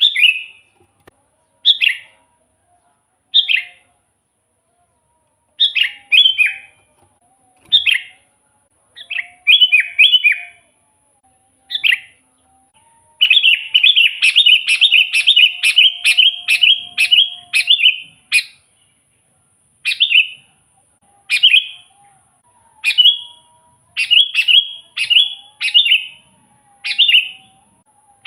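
Sooty-headed bulbul (kutilang) singing actively: short, bright chirping phrases repeated every second or two, with a rapid run of quick repeated notes lasting about five seconds midway.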